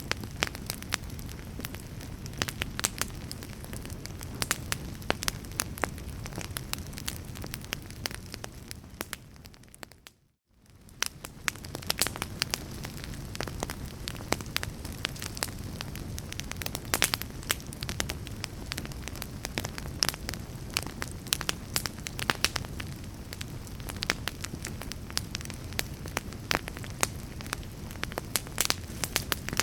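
Fire crackling, with many sharp pops and snaps over a low rumble. About ten seconds in it fades briefly to near silence and then comes back.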